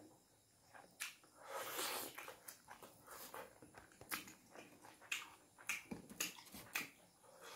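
Close-up eating sounds: wet mouth clicks and smacks from chewing meat, eaten by hand, with a longer noisy sound around two seconds in.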